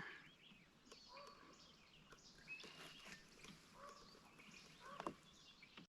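Near silence with faint, scattered bird chirps and a single light knock about five seconds in.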